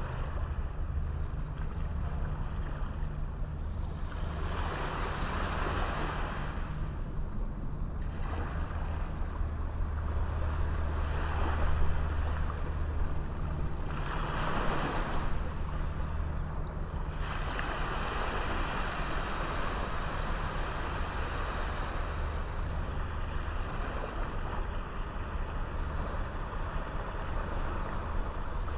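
Small sea waves breaking and washing up a beach, swelling and fading every few seconds over a steady low rumble of wind on the microphone.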